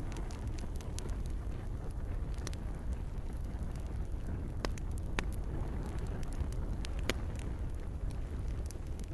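Campfire crackling: scattered sharp pops and snaps from the burning wood over a steady low rumble of the flames.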